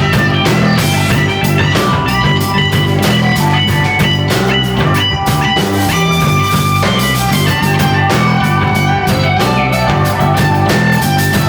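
A rock band playing live: electric guitar lines over bass and a drum kit keeping a steady beat.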